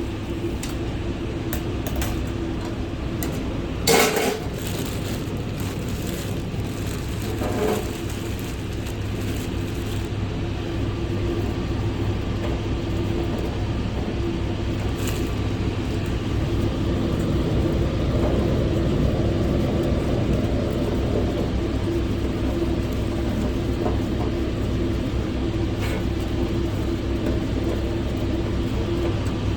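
Steady low mechanical hum and rumble, with a single sharp knock about four seconds in.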